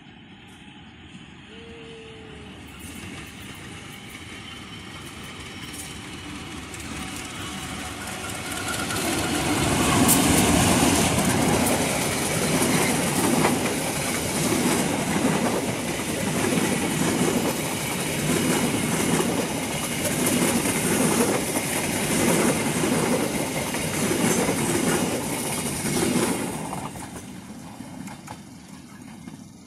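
Diesel-hauled local passenger train approaching, growing louder over about ten seconds, then passing close with an even, repeating clickety-clack of coach wheels over the rail joints, and fading quickly after the last coach goes by near the end.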